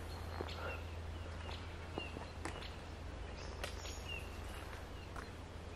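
A bird calling outdoors with short, slightly falling high chirps, repeated roughly once a second, over a faint steady low hum and a few light clicks.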